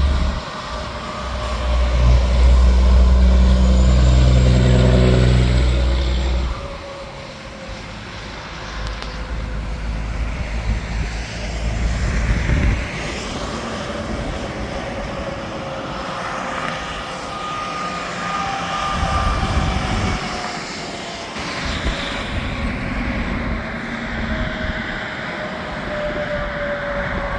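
Interstate highway traffic. A heavy truck passes close in the first few seconds with a deep, loud engine rumble, then further vehicles go by with steady tyre noise and slowly falling pitches as they pass.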